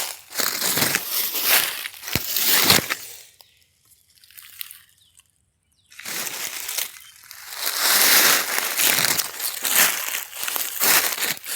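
Rustling, crunching noise in uneven bursts, with a break of about three seconds in the middle.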